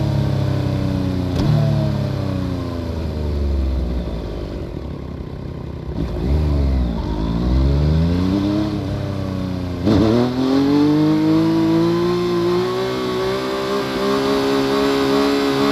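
Yamaha FZ-09's 847 cc inline three-cylinder engine through an Akrapovic full exhaust system, heard from under the seat while riding. The revs fall over the first few seconds, rise and fall twice in the middle, then drop sharply about ten seconds in and climb steadily to the end as the bike pulls through a gear.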